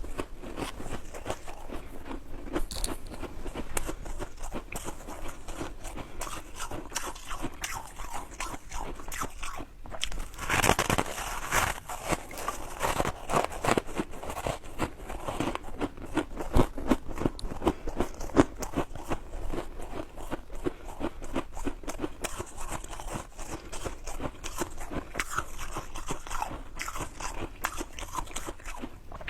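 Close-miked biting and chewing of ice: a dense run of crunches and crackles, with a short pause about ten seconds in.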